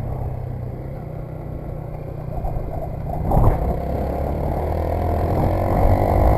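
Motorcycle engine running while riding, with a sharp knock about three seconds in, after which the engine grows louder and rises slightly in pitch as the bike accelerates.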